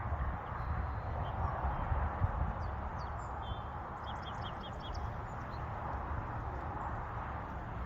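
Outdoor ambience with a steady low background rumble and faint small-bird chirps, including a quick run of five short high chirps about four seconds in.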